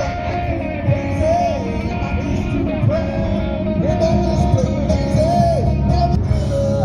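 Live rock music: a singer holding and bending notes over electric guitar and a steady low-end backing.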